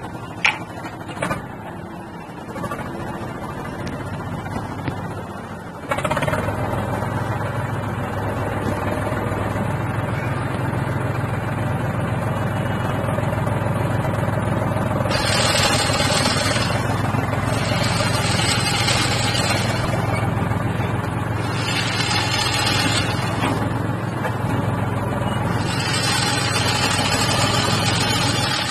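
A motor starts running about six seconds in with a steady low drone, after a few light clicks. From the middle on, bursts of hissing noise come and go over it.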